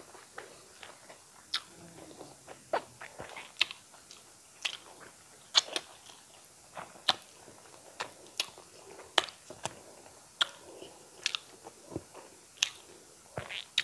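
Close-miked chewing of a mouthful of rice and eel curry, with wet mouth smacks and clicks at irregular intervals, about one or two a second.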